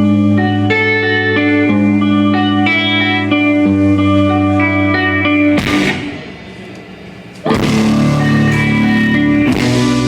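Live rock band: a clean electric guitar picks a melody of held notes over steady bass. A little past halfway there is a crash and a brief quieter drop, then the full band with drums and cymbals comes back in loudly.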